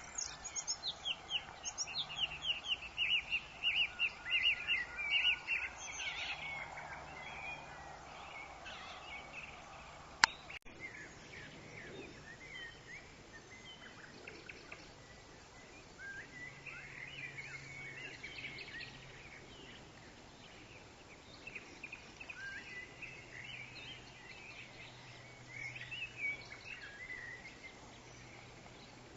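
Forest ambience of birds calling over a steady background hiss: a fast run of repeated chirps for the first six seconds, then scattered, sparser calls. A single sharp click about ten seconds in.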